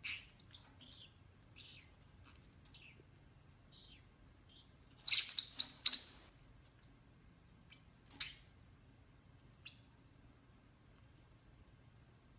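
A pet bird chirping: scattered short high chirps, with a loud cluster of several sharp calls about five seconds in and a couple more chirps later.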